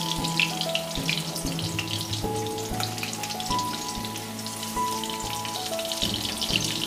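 Oil sizzling and crackling as paneer cubes shallow-fry in a steel kadai, with occasional knocks of a steel spatula against the pan as the cubes are turned and lifted out.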